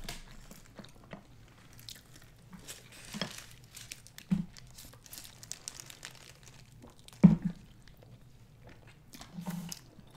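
Close-miked chewing and biting of sushi, with small crunches, crinkles and wet mouth sounds, including a bite of a salmon hand roll. One louder knock comes about seven seconds in.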